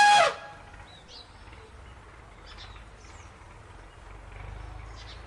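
Tail end of an elephant's trumpet call, cutting off a fraction of a second in, followed by a few faint, scattered bird chirps over a low steady rumble.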